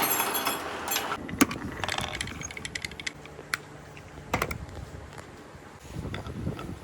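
Marbles rolling along a handmade marble run track, with a rumble of rolling and scattered sharp clacks as they hit the track and each other. The rolling is louder at the start and swells again near the end.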